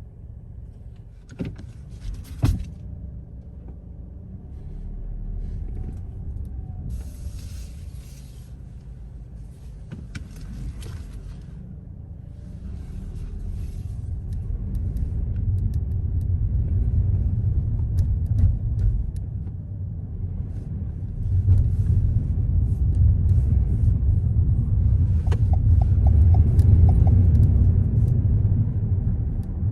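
Car driving on city streets: a steady low road and engine rumble that grows louder from about halfway. Two sharp knocks about two seconds in, and a few short bursts of hiss early on.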